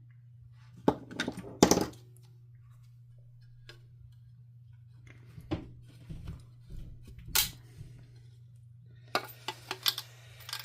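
Scattered clicks, knocks and clinks of hard vacuum-cleaner parts being handled during disassembly of the motor casing, with a short run of quick clicks near the end. A steady low hum sits underneath.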